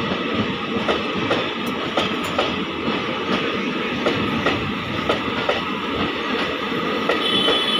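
Passenger train passing at close range: a steady rumble of wheels on rail, with sharp clicks as the wheels cross rail joints several times a second.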